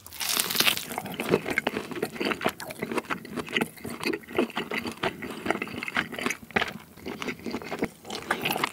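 Close-miked bite into a grilled tomahawk steak, then chewing of the beef, with many small irregular mouth clicks and smacks. The bite is the loudest sound, right at the start.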